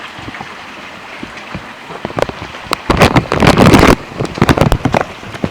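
Heavy rain falling, a steady hiss. From about two seconds in come loud, ragged crackling bursts of rain striking and rustling the plastic bag wrapped over the camera, loudest between three and four seconds in.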